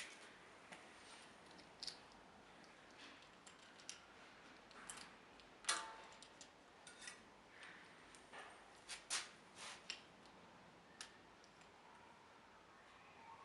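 Scattered small clicks and taps of parts and tools being handled during bicycle assembly, with one louder metallic clink that rings briefly about halfway through.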